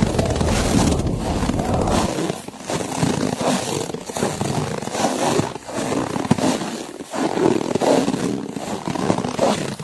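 Footsteps crunching through snow, each step a dense, gritty crunch with brief pauses between them. A deep wind rumble drops away about two seconds in.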